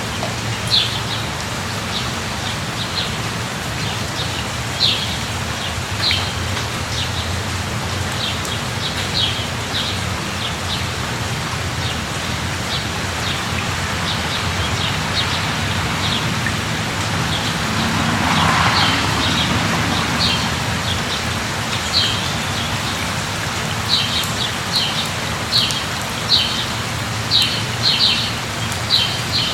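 Steady light rain falling, with a low rumble underneath and a bird chirping in short high notes that come faster toward the end. A brief swell in the hiss a little past halfway.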